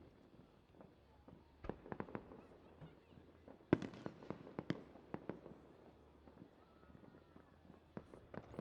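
Distant fireworks going off: a scatter of sharp pops and crackling bangs in quick clusters, the loudest a little past a third of the way in.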